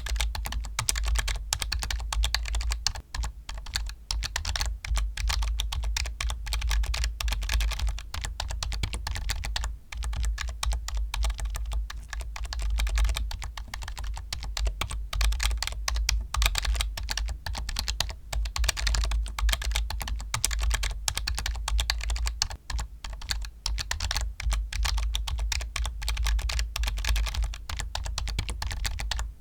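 Typing on a computer keyboard: a rapid, unbroken stream of key clicks with no pauses longer than a moment, with a deep low thud under the strokes.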